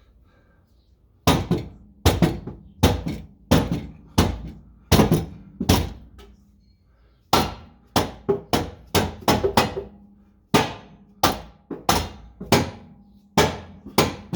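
Repeated hammer blows on the metal of a car's exhaust, knocking a stuck catback section loose. A run of about seven strikes, a short pause, then about a dozen more, each with a brief metallic ring.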